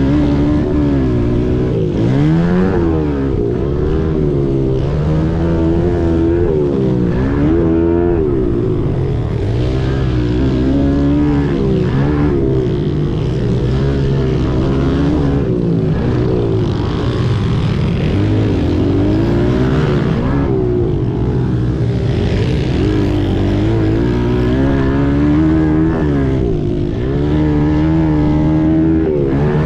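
Several 90cc and 110cc pit bike engines racing, their pitch rising and falling again and again as the riders open and close the throttle, with more than one engine heard at once.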